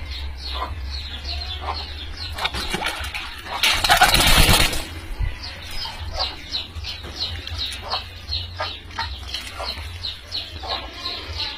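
Birds chirping over and over in short, quick downward notes, with a loud flurry of wing-flapping about four seconds in, over a steady low rumble.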